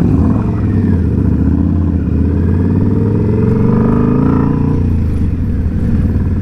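Indian Scout Bobber's V-twin engine running steadily under way on the road. Its note climbs from about two seconds in and falls back near the five-second mark as the throttle opens and then eases off.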